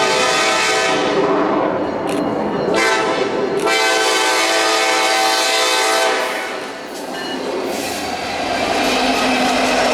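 Train horn sounding two long blasts: the first is already going and stops about two seconds in, the second runs from about three to six seconds. The train's running noise carries on after it.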